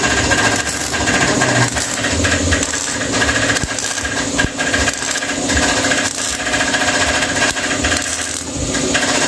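MIG welder crackling and buzzing steadily as it welds sheet-metal car body panels.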